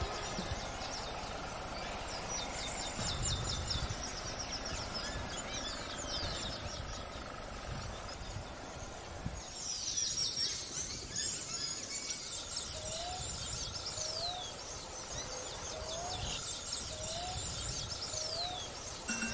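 Several small birds chirping and trilling outdoors over a low background rumble. In the second half one bird repeats a short rising whistle about once a second, five times.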